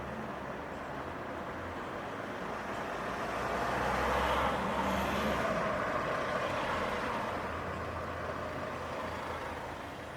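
A motor vehicle passing on a city street, its engine and tyre noise growing to loudest about four to five seconds in and then slowly fading into the traffic.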